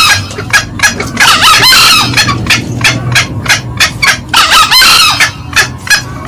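Green junglefowl calls: two hoarse crows, about a second in and again about four seconds in, over a steady run of short, sharp clucks about four a second, the hen's cackling. This is a loud lure-call recording.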